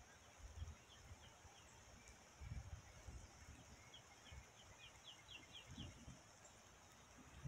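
Near silence: a bird giving quick runs of short chirps, about four or five a second, over a steady faint high hiss, with a few faint low rumbles.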